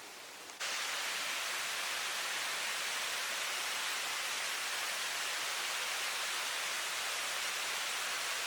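Steady hiss of rain falling, which jumps abruptly louder about half a second in and then holds even.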